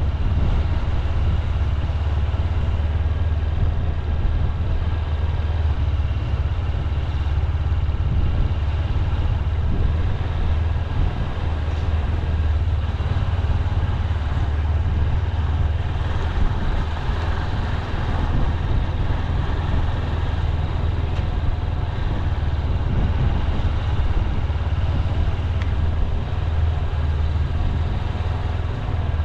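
Honda CB200X motorcycle's single-cylinder engine running at a steady low, even pitch.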